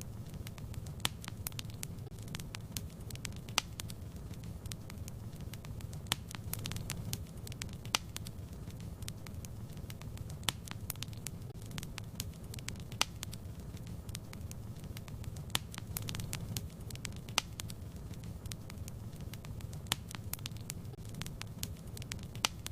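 Fireplace fire burning steadily with a low rumble of flame, crackling and popping irregularly with frequent sharp pops.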